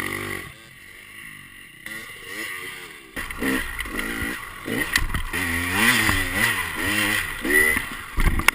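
Dirt bike engine revving, its pitch rising and falling again and again as the throttle is opened and closed. It gets louder about three seconds in.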